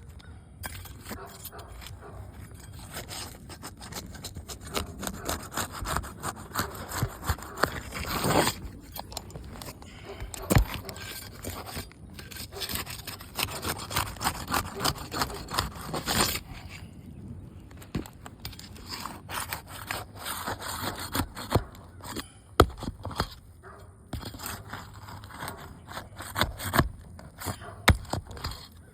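Brittle asphalt roof shingles being pried and scraped loose: repeated rasping scrapes in spells, with sharp clicks and cracks as the sealed shingles are broken free and tear.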